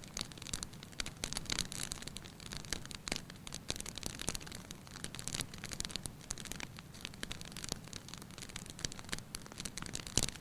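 Wood fire crackling in a fireplace: irregular sharp snaps and pops over a steady low sound of the flames, with a louder pop near the end.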